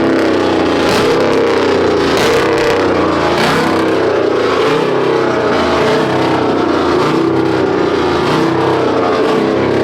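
Pickup truck engine revved hard through a loud exhaust, held at high revs with the pitch wavering up and down.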